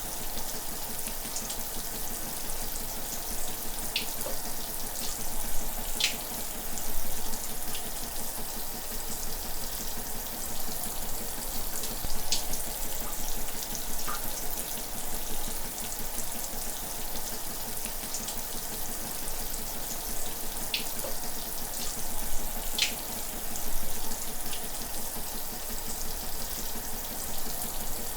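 Shower running: a steady hiss of spraying water, with a few brief splashes.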